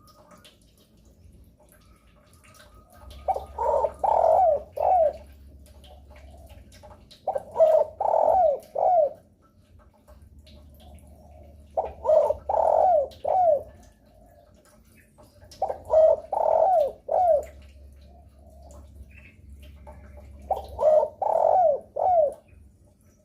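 Spotted dove (derkuku) cooing: five phrases about four seconds apart, each a quick run of three or four coos, over a faint low hum.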